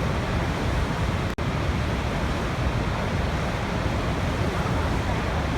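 Waterfall: a steady, dense rush of falling water, heavy in the low end, with a momentary dropout just over a second in.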